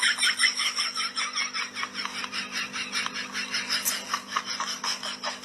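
Rapid, rhythmic scratching or rasping, about five to six strokes a second, over a steady low hum.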